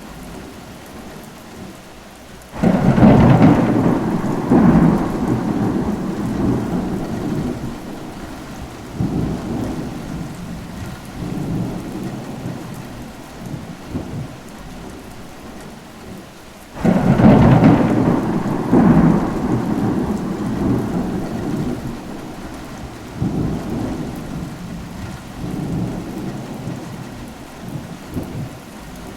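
Steady rain with two rolls of thunder: each breaks suddenly, about three seconds in and again about seventeen seconds in, then rumbles on in swells and fades over several seconds.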